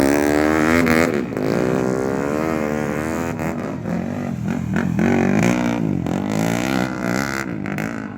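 Motocross dirt-bike engines revving, the pitch rising and falling over and over as the throttle is worked.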